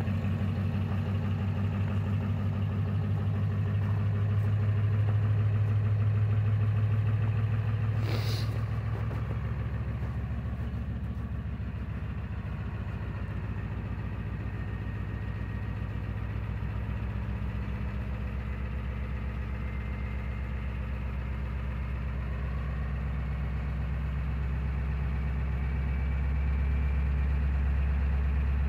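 Ford 7.3 L Power Stroke V8 turbo-diesel idling steadily while warming up after a cold start at −8 °C. A single short click about 8 seconds in.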